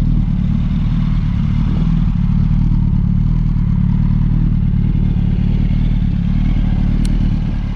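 2005 Yamaha R1's 998 cc inline-four engine idling steadily, with no revving.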